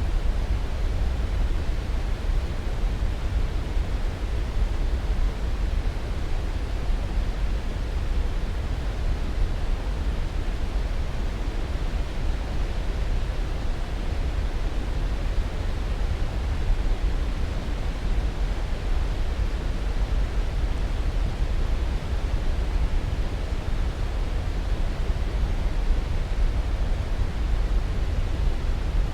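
Steady sleep-aid noise: an even, unchanging hiss, heavier in the low end, with no breaks or events.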